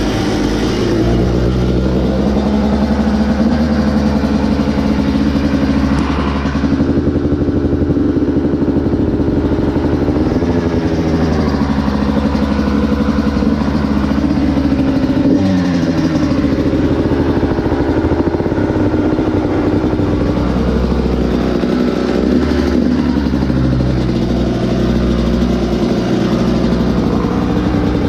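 Kawasaki KX85's single-cylinder two-stroke engine running after a cold start on choke, idling with its pitch briefly rising and falling a few times.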